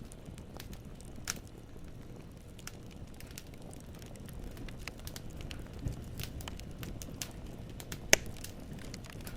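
Wood burning in a fireplace: a low steady rumble of flames with scattered sharp crackles and pops of splitting logs, the loudest pop near the end.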